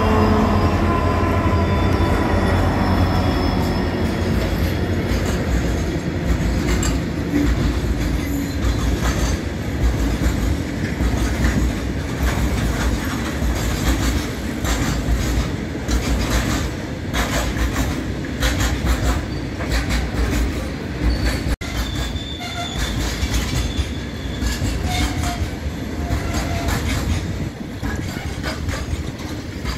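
An Indian Railways diesel locomotive passes with its engine note falling, followed by a long freight train of covered goods wagons rolling by. There is a steady wheel rumble with clickety-clack over the rail joints, and a few short wheel squeals in the second half.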